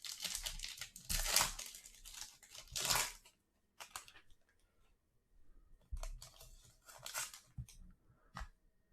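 Foil trading-card pack wrapper being torn open and crinkled, loudest in the first three seconds, followed by fainter rustling and a few light clicks as the cards are handled.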